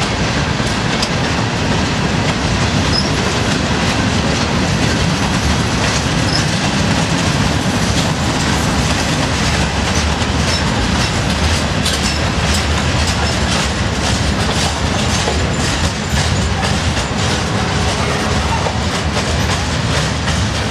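Freight train cars, boxcars and covered hoppers, rolling slowly past up a grade. There is a steady rumble of steel wheels on rail, with clickety-clack over the rail joints that comes more often in the second half.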